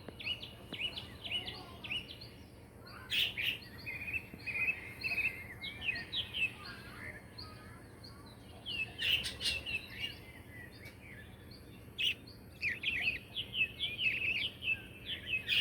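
Small pet birds chirping: runs of quick, short, high chirps with brief lulls between them, and a few sharp clicks.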